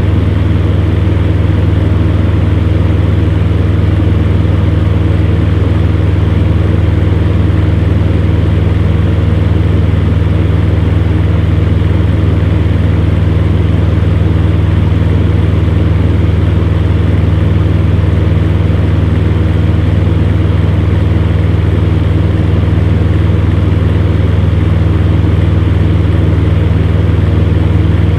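Electric fan heater running steadily: a constant low hum with a few steady tones over an even whoosh of blown air.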